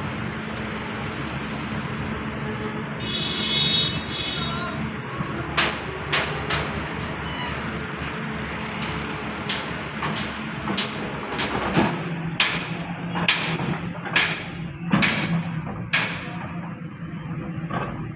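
Heavy construction machine's diesel engine running steadily, with a brief high-pitched squeal about three seconds in. From about five seconds on come repeated sharp knocks, louder and closer together in the second half.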